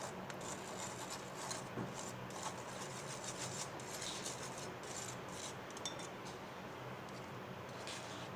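Flour being sifted through a hand-held kitchen sieve: a steady scratchy rubbing with many short, quick strokes as the flour is worked through the mesh.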